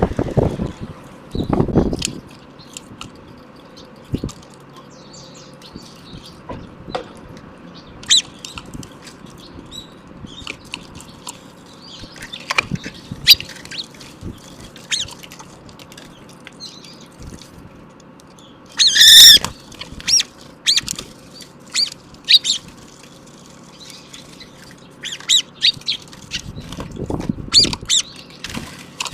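Songbirds calling: scattered short, high chirps, and one loud, harsh squawk about two-thirds of the way in. There are a few low thuds near the start and again near the end.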